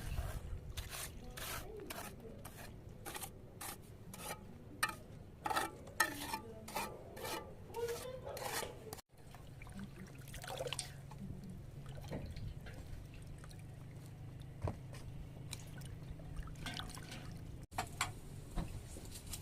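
Hand food preparation: rhythmic scraping strokes, about three a second. After a sudden cut come a low steady hum and a few light knocks.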